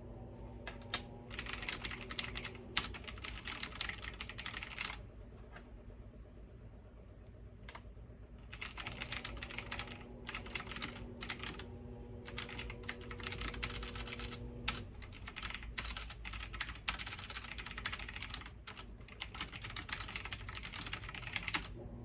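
Fast typing on a computer keyboard in two long runs of rapid key clicks, with a pause of a few seconds after the first run.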